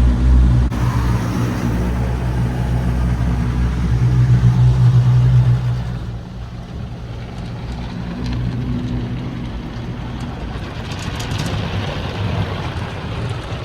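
High-pressure spray stage of a Sonny's tunnel car wash heard from inside the car: a steady low hum of the equipment with water spraying over the body, loudest about four to six seconds in, then easing, with a brief hiss of spray near the end.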